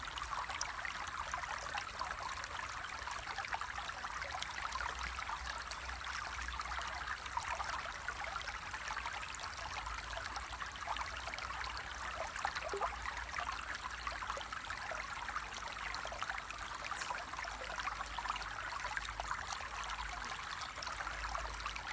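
Flowing water, a steady trickling and gurgling with many small splashes, over a faint low rumble.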